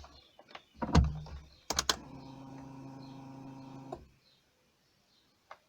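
Clicks and a heavy thump about a second in, then a quick run of sharp clicks like a key going into the ignition. This is followed by a steady electric hum lasting about two seconds that stops abruptly: typical of the Honda CRX's electric fuel pump priming when the ignition is switched on, just before cranking.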